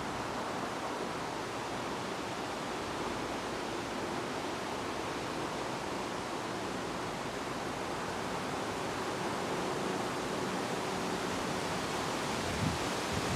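Wind blowing steadily, a continuous even rushing with rustling leaves, and a small knock near the end.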